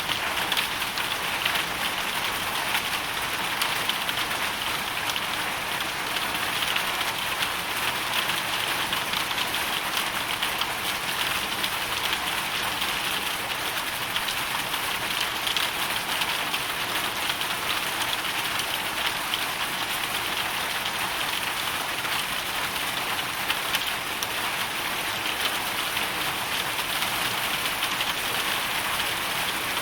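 Hailstorm: hail and rain falling steadily, a dense continuous patter of many small impacts.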